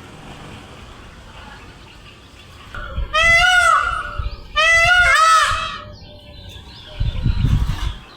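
Indian peafowl (peacock) calling loudly twice, about three and five seconds in, each call about a second long and rising then falling in pitch. A low rumble follows near the end.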